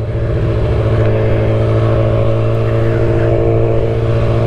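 Motorcycle engine running at steady revs while riding, a steady low drone that swells slightly in the first second.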